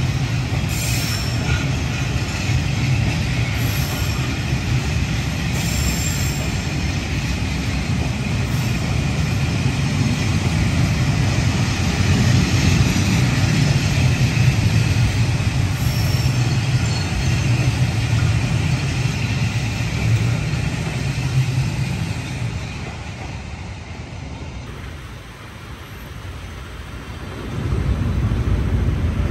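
Train rolling past on the rails, a steady low rumble of wheels and wagons that fades away a few seconds before the end. Near the end a louder rumble of another train starts up.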